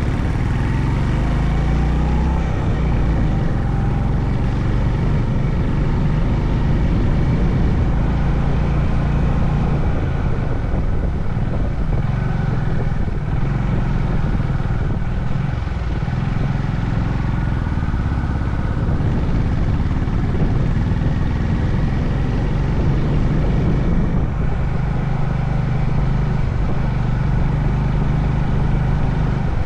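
Honda CB350 Highness single-cylinder engine running under way, its note rising and falling a little with the throttle, over steady wind and road noise.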